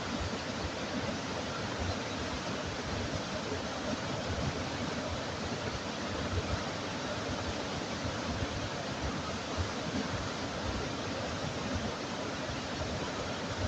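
Steady, even rushing of running water, with no separate events standing out.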